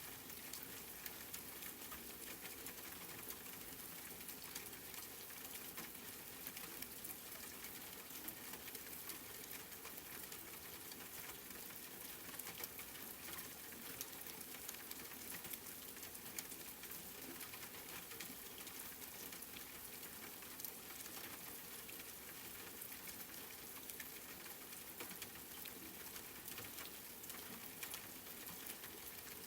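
Steady rain with many small drops pattering, an even high hiss dotted with fine ticks throughout.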